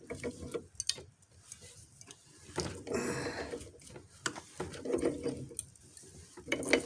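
Hand tools clinking and tapping on metal while working on a tractor's steering drag link, a few sharp clicks spread out among quieter handling noise.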